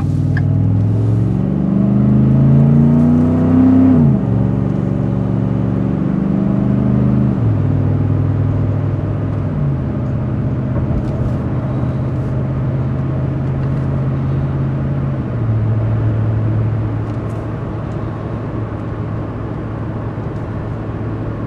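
Ford F-150's 5.0-litre V8 through a Magnaflow exhaust, heard from inside the cab, accelerating through the gears. The engine note rises for about four seconds, then drops at each automatic upshift, about four, seven and a half, ten and fifteen seconds in. It settles into a steady low rumble at cruise, over tyre and wind noise.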